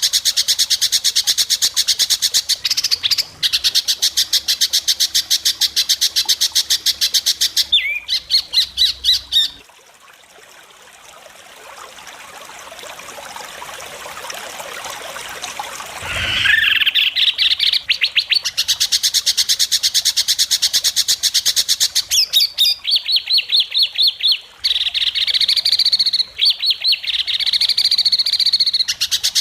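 White-rumped shama (murai batu) singing long, very fast runs of sharp repeated notes, the rapid 'besetan' type of song valued in contest birds. The song breaks off for about six seconds a third of the way in, then resumes just as fast.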